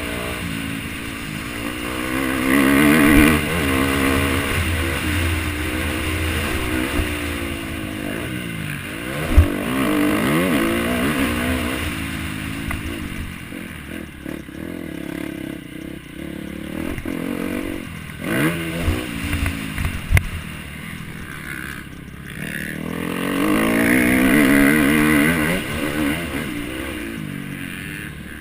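MX1 motocross bike engine revving hard, its pitch climbing and dropping again and again as it accelerates and backs off, with a few sharp knocks, the loudest about nine seconds in and a cluster near two-thirds of the way through.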